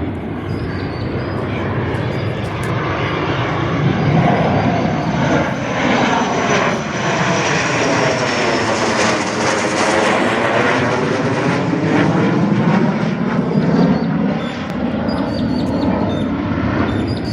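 Aircraft passing low overhead: engine noise builds to a peak about ten seconds in and then eases off, with a thin high whine that slowly falls in pitch as it goes by.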